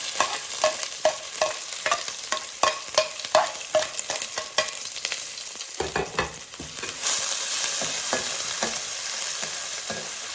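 Crushed bird's eye chillies, garlic and ginger sizzling in hot coconut oil while being stirred, the stirrer knocking against the pan about two to three times a second for the first half and only now and then after that.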